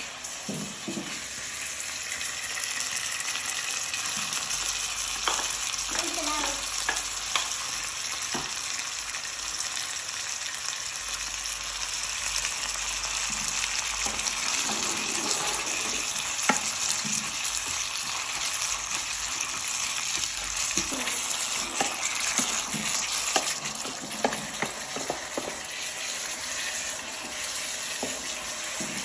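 Chopped frog pieces and shredded ginger sizzling in oil in an electric hot pot as they are stir-fried. The steady sizzle is broken by scattered clicks and scrapes of a wooden spatula against the pan.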